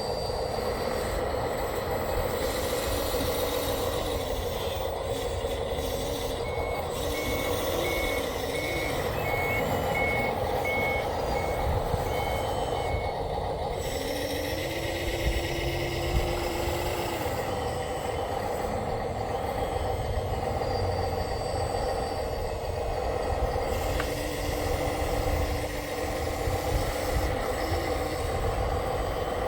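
Reversing alarm beeping about a dozen times, about twice a second, partway through. Underneath it, a steady hum of running machinery.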